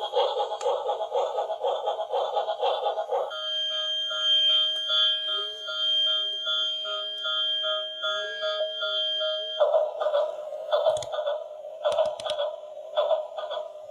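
Electronic beeping tones: a fast pulsing pattern, then several held tones with a wavering lower note for about six seconds, then the fast pulsing again. A few sharp clicks come near the end.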